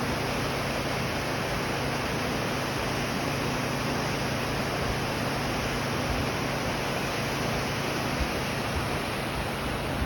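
Waterfall rushing: a steady, unbroken wash of falling water, with a faint low hum under it that fades out near the end.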